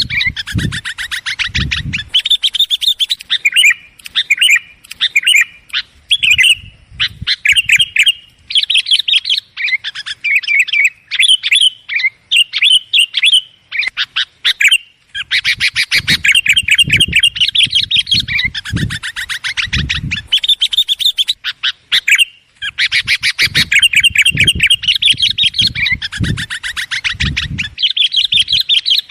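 Sooty-headed bulbul (kutilang) chattering busily: a rapid, unbroken stream of high chirps that breaks off briefly about 15 and 22 seconds in. Short low thuds sound underneath at times.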